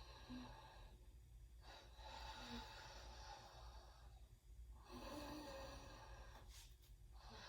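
Faint, slow, audible breathing, a few long breaths each lasting a couple of seconds, over a low steady hum.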